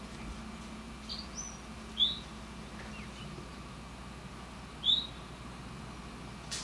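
Bird chirps: a few short, high chirps spaced a couple of seconds apart, two of them loud, over a steady hiss and low hum.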